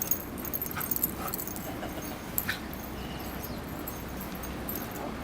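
A dog whimpering with a few short yips, mostly in the first half, over a steady background hiss.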